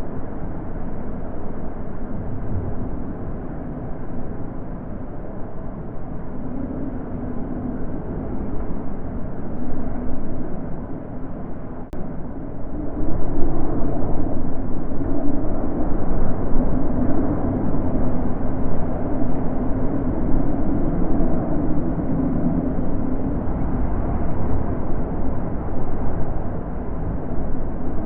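Wind blowing in gusts, a steady low rushing that swells louder about halfway through.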